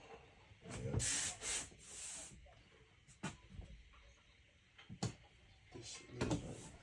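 Wood scraping and rubbing, in two hissy bursts about a second in, then a few sharp knocks and taps near the end, as pieces are handled and fitted.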